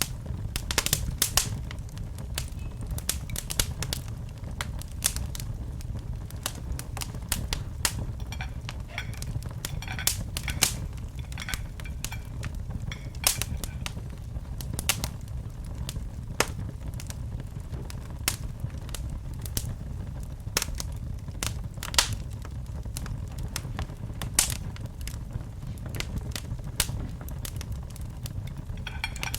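Wood fire in a fireplace crackling: irregular sharp snaps and pops, several a second, over a steady low rumble of the burning fire.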